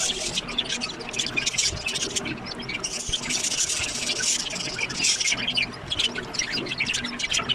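Budgerigars chirping and chattering: a dense run of short, high, overlapping cheeps, busiest in the middle.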